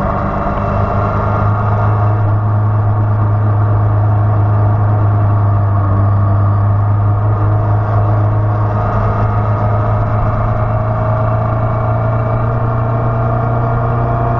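Motorcycle engine running steadily under power at speed, heard through the bike's onboard camera. Its pitch creeps slowly upward over the last few seconds.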